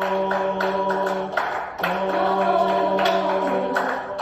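A cappella vocal music: several voices holding sustained chord notes over a steady percussive beat.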